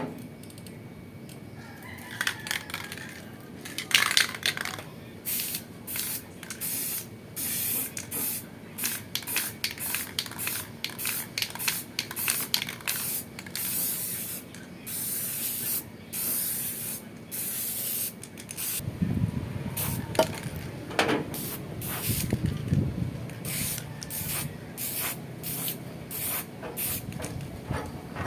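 Aerosol spray-paint can spraying black paint onto the rusted top of an exhaust hood in many short hissing bursts, roughly one a second, some held a little longer.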